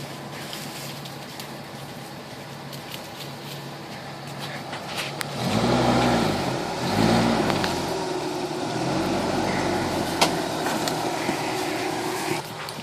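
1981 Toyota pickup's engine idling, then revved twice in quick succession about five and a half seconds in and held at a higher steady speed as the truck crawls over rocks. A sharp knock about ten seconds in, with small clicks scattered throughout.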